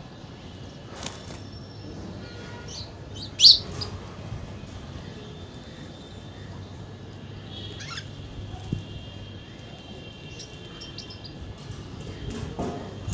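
Birds chirping: scattered short calls over steady outdoor background noise, with one loud, sharp chirp about three and a half seconds in.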